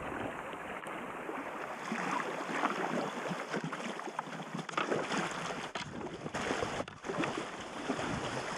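River water splashing and rushing around a packraft, with many small irregular splashes.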